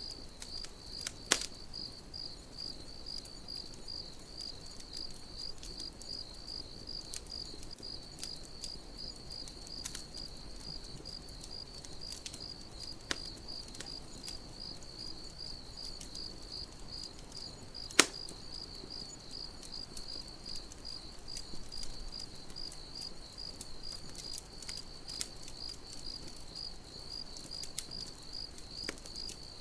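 Crickets chirping in a steady, even pulse over a campfire's scattered crackles and a few sharp pops, the loudest about 18 seconds in.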